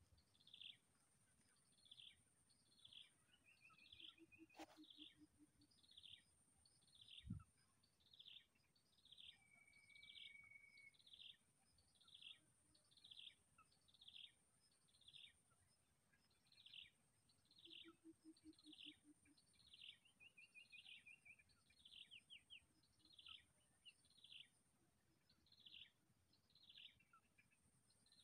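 Faint bird calling over and over: a short falling high note a little more than once a second, with now and then a brief level trill, over a steady high hiss.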